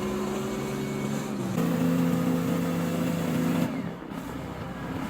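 1952 Allis-Chalmers HD-20 bulldozer's Detroit Diesel 6-110 two-stroke six-cylinder diesel running under load. About a second and a half in, the engine's pitch and loudness step up. They drop back about two seconds later.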